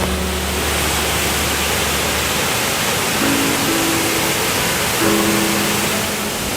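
Steady rush of a waterfall, with background music of soft held notes over it.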